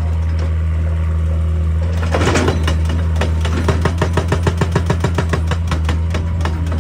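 Excavator's diesel engine running steadily under load. About two seconds in, a rapid, even train of sharp strikes starts, typical of a hydraulic breaker hammering rock.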